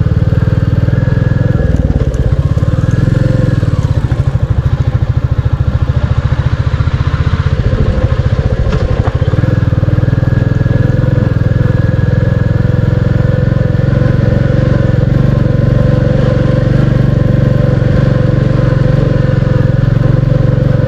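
Royal Enfield Classic 350's single-cylinder engine running under way, a steady fast low beat of firing pulses. The revs shift briefly a few seconds in and settle again about nine seconds in.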